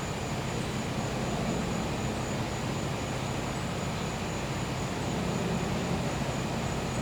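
Gas-powered generator running with a steady low hum, under a thin, high, unbroken insect trill.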